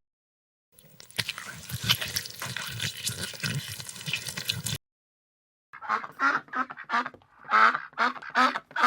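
Duck quacking: a run of about seven short, loud quacks, roughly two a second, starting a little past the midpoint. Before them comes about four seconds of dense, crackling noisy sound, then a brief silence.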